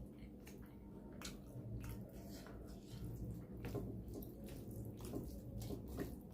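A person chewing food close to the microphone: wet mouth and lip smacks and short irregular clicks, over a steady low hum.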